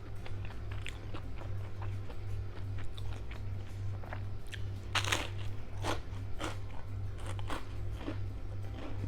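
Crisp crunching as crunchy food is bitten and chewed, a string of short crackles with the loudest bite about five seconds in.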